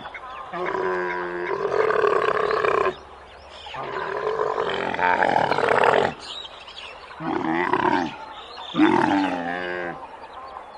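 A large farm animal calling: two long, drawn-out calls followed by two shorter ones, each rich and throaty.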